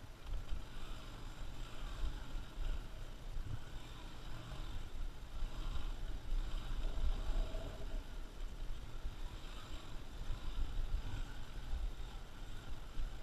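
Motorcycle being ridden off-road, heard as an uneven low rumble with wind buffeting the camera's microphone.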